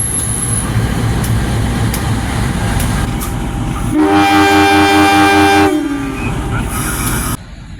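Steady rumble of a train running, then a locomotive horn sounds one loud blast of under two seconds about four seconds in. The sound drops off abruptly near the end.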